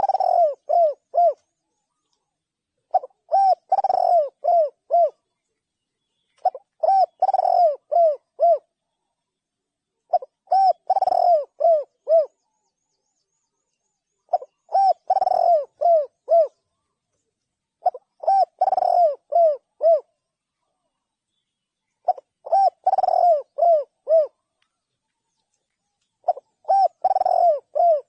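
Spotted dove calling: a phrase of several short, clear coos, repeated about every four seconds over a silent background.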